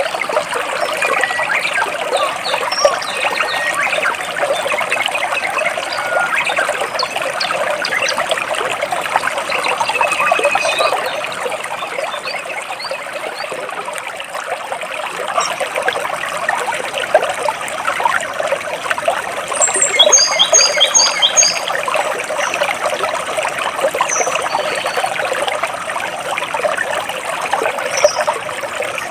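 Stream water trickling and splashing steadily between rocks, with birds chirping now and then above it; about twenty seconds in, a bird gives a quick run of short, repeated chirps.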